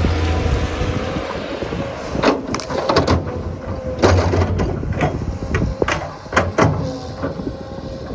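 Heavy digging machine's engine running with a low steady hum, overlaid by a string of irregular metallic clanks and scrapes.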